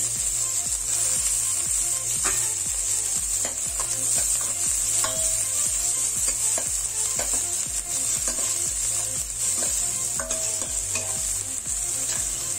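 Chopped onion and garlic sizzling in hot ghee in a stainless steel pan, a steady hiss, while a metal ladle stirs and scrapes against the pan in irregular clicks. This is the tadka (tempering) being fried.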